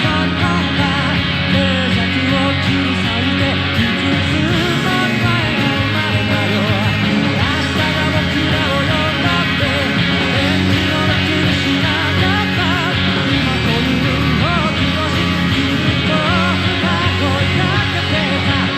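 Electric guitar, a Gibson Les Paul Special played through a small speaker, playing along to a live rock recording with a singing voice.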